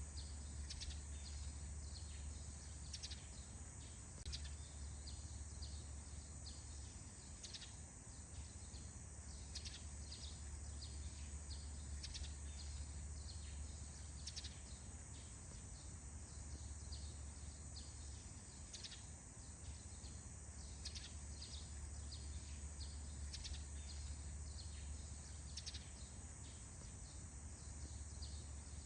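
Birds chirping in a dawn chorus: short, quick falling notes repeating over and over, over a steady thin high-pitched whine and a low hum.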